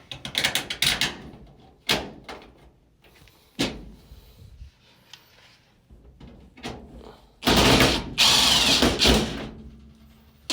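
Scattered knocks and clicks of dryer sheet-metal parts being handled, then a louder burst about seven and a half seconds in, lasting about two seconds: a power drill driving a screw to fasten a part of the dryer.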